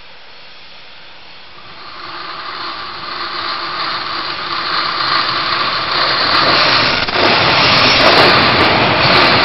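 TRA EMU500 electric commuter train coming out of a tunnel and passing close by. The noise of its wheels on the rails grows steadily louder from about two seconds in.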